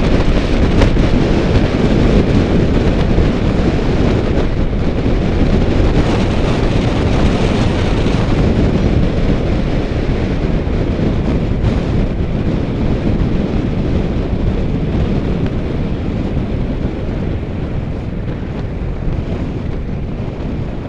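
Steady wind noise buffeting the microphone of a camera on a moving bicycle, a loud even rush that slowly eases toward the end as the speed drops.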